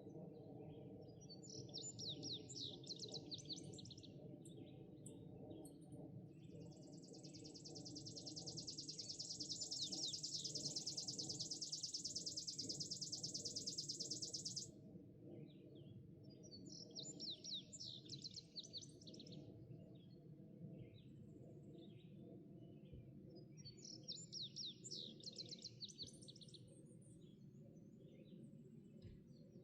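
Songbirds singing, a short phrase of quick falling notes repeated every several seconds, with a long, even, buzzy high trill that stops suddenly about halfway through. A steady low hum runs underneath.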